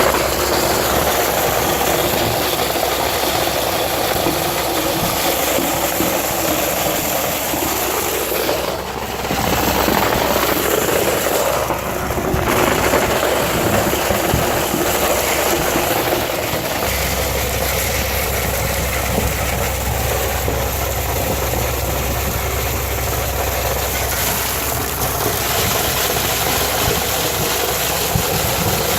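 Truck-mounted concrete pump's diesel engine running steadily, with two brief dips about nine and twelve seconds in.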